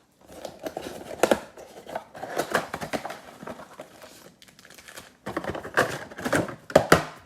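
Plastic wrapping crinkling and tearing as a shrink-wrapped trading-card mega box is unwrapped and opened, in irregular rustling crackles that come in spurts, busiest about a second in and again over the last two seconds.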